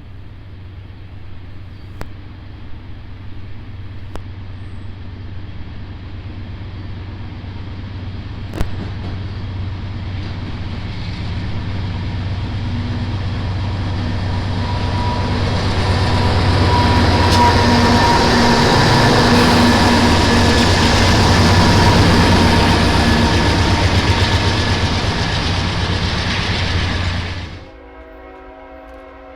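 Diesel freight train approaching and running past, with the locomotives' engine rumble and wheel noise growing steadily louder and loudest in the second half. Near the end the rumble cuts off suddenly and a locomotive horn sounds a steady multi-tone chord.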